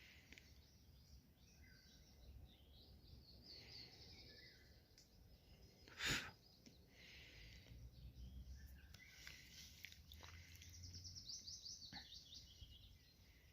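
Faint birdsong: several birds chirping and trilling. About six seconds in there is a single sharp click or knock, louder than the birds.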